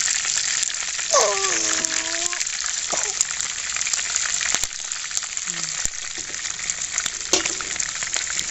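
Chicken leg pieces sizzling steadily as they shallow-fry in oil in a non-stick frying pan, with scattered light clicks from a steel spatula turning them.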